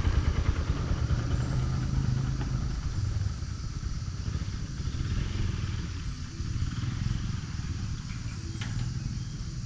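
Motorcycle engine running with a steady low pulsing note, just after starting, growing gradually quieter.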